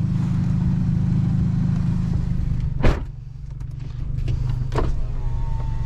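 2004 Honda Civic coupe's engine running at low speed, a steady hum. About three seconds in there is one sharp click, and after it the engine sounds quieter.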